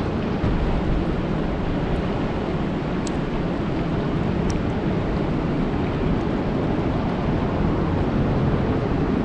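Steady rain falling on a lake: an even rushing hiss, fullest in the low range, with a few faint high ticks.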